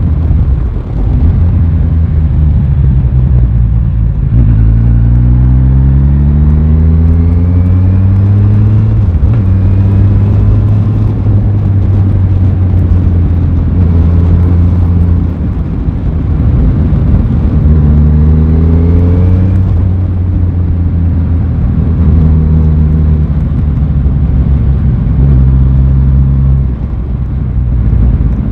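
Aprilia Tuono 660's parallel-twin engine under way, its note rising as the bike accelerates between about 4 and 9 seconds in and again shortly before 20 seconds, with steady cruising in between. The sound eases off briefly twice.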